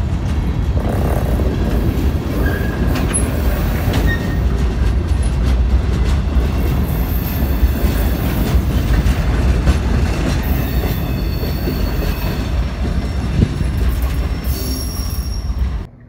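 Freight train of boxcars rolling past close by: a steady rumble of steel wheels on the rails, with a few brief high wheel squeals. The sound cuts off abruptly near the end.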